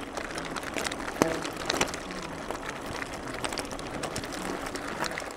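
Mountain bike rolling over a rough dirt track: a steady rushing noise with frequent small rattles and knocks, one sharper knock about a second in.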